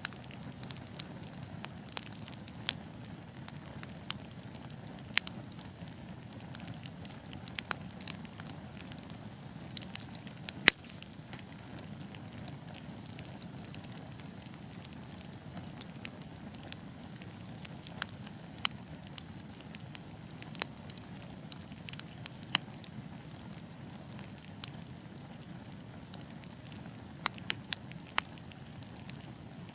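Wood fire burning in a fireplace: a steady low rush of flames under scattered sharp crackles and pops, one loud snap about ten seconds in and a quick cluster of pops near the end.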